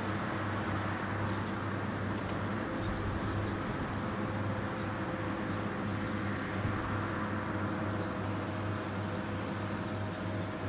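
Rice combine harvester engine running steadily, a constant mechanical drone with a low hum.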